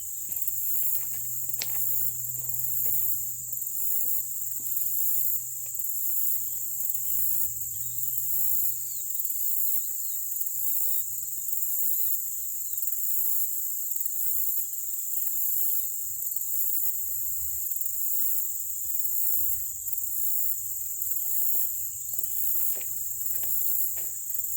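Insect chorus: a steady high-pitched shrill with a faster pulsing layer above it. Scattered light clicks come in the first few seconds and again near the end.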